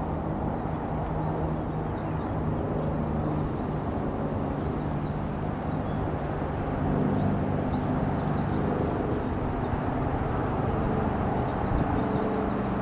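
A steady engine drone that grows a little louder in the second half, with faint, short high bird chirps scattered over it.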